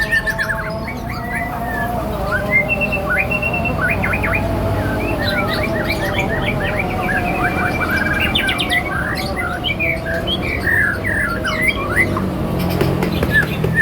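Songbirds chirping and singing in rapid, overlapping phrases of quick sweeping notes, with no pause.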